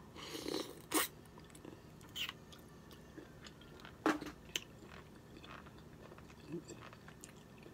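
Close-up chewing: wet mouth clicks and smacks of someone eating, loudest in the first second, with single sharper clicks near two and four seconds.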